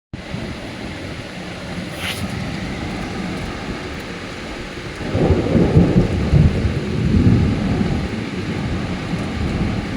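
Thunderstorm: rain falling steadily, with a deep rolling rumble of thunder swelling about halfway through and fading a few seconds later.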